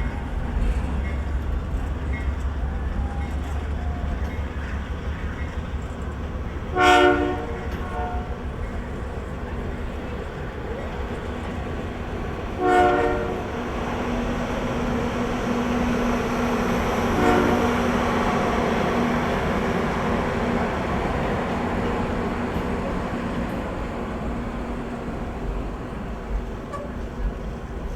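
Canadian Pacific diesel locomotive's air horn sounding two loud blasts of about a second each, about 7 and 13 seconds in, with a fainter short toot a few seconds later, over the steady low rumble of the train.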